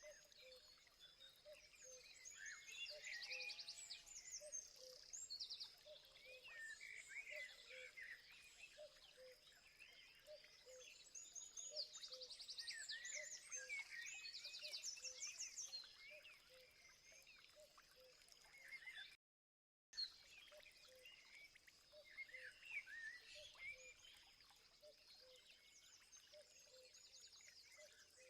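Faint chorus of several wild birds chirping and trilling over a steady high hum, with a soft low note repeating about twice a second. The sound drops out completely for a moment about two-thirds of the way through.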